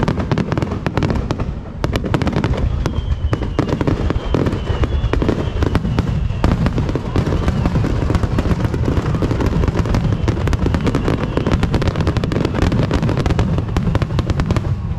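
Fireworks finale barrage: a dense, unbroken volley of shell bursts and crackling with a heavy low rumble. It cuts off abruptly right at the end.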